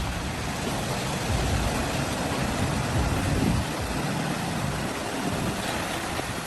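A vehicle engine running steadily, heard as a dense, even rumble and rush.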